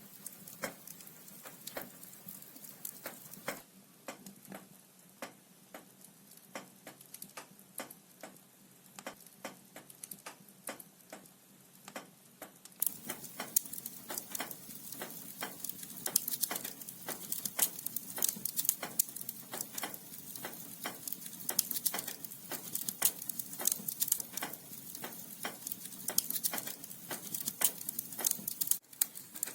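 Wood fire crackling in a fireplace, the burning logs giving off a steady run of sharp pops and snaps. About halfway through, the crackling becomes louder and busier.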